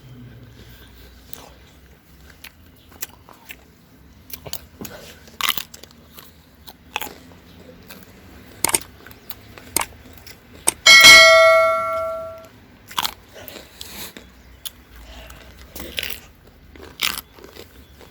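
Crisp crunches and clicks of fresh green almonds being bitten and chewed. About eleven seconds in, a single loud bell-like ring fades away over a second or so.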